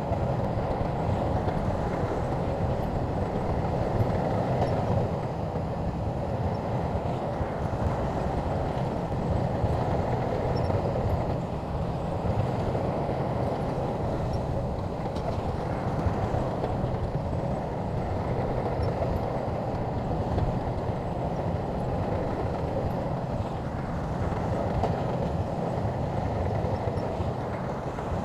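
Shantui crawler bulldozer's diesel engine running steadily at work, a constant mechanical din.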